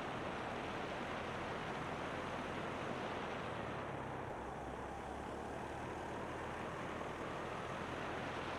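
Steady wind rush over the microphone of a moving motorbike, with the engine's low hum underneath.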